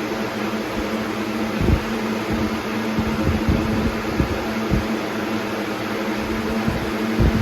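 Air King 9723 box fan running on high speed: a steady rush of air with a steady hum, and irregular low thumps.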